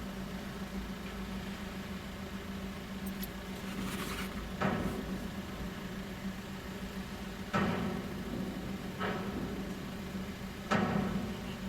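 Steady low vehicle hum on a ferry's car deck, broken by four sudden clunks a couple of seconds apart, the first about a third of the way in and the last near the end.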